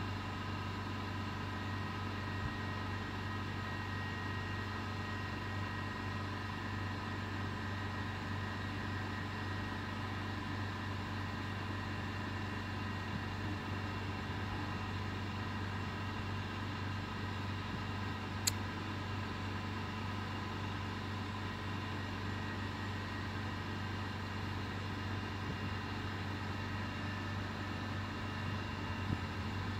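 A Krösatåg regional multiple-unit train standing at the platform with its machinery running: a steady hum with several held tones that never change. One brief sharp click about two-thirds of the way through.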